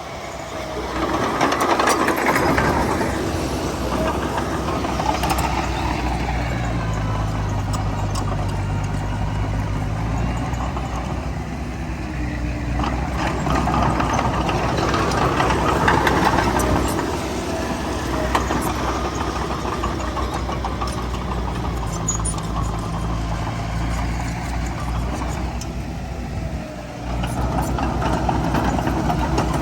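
Bulldozer's diesel engine working under load while pushing soil, its note rising in several surges and easing back to a steadier drone between them.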